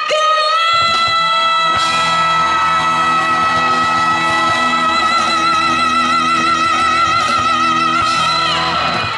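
Live pop song: a female singer holds one long high note with vibrato over the band's sustained chords, ending just before nine seconds in.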